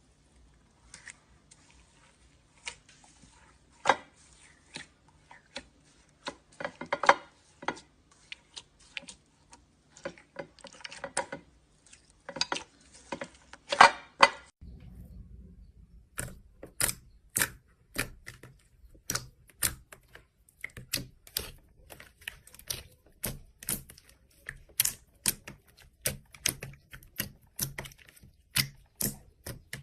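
Slime being pressed and squeezed by hand, making sharp clicking and popping sounds. The sound changes about halfway through to a brighter, more even run of crisp clicks, about two or three a second.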